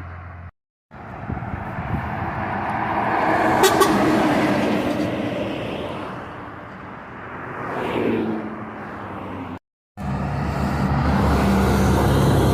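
Road vehicles passing, their noise swelling up and fading twice, broken by two abrupt edit cuts; after the second cut a heavy truck engine runs steadily.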